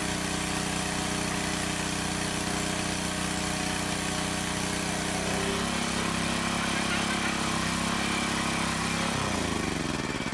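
A small engine running steadily, its tone shifting slightly about halfway through, then shut off near the end, falling in pitch as it winds down and stops.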